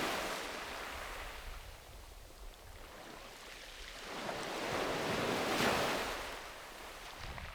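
Sea waves washing onto a beach: the hiss of one wave dying away, a lull, then the next wave swelling in past the middle, breaking and receding.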